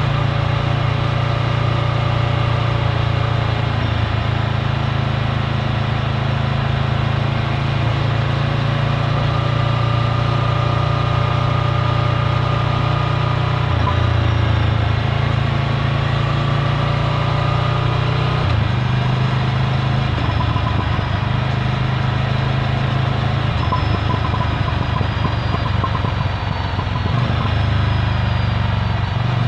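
Ducati Scrambler's L-twin engine through its Termignoni exhaust, running at low, even revs. The engine note shifts a few times as the revs change.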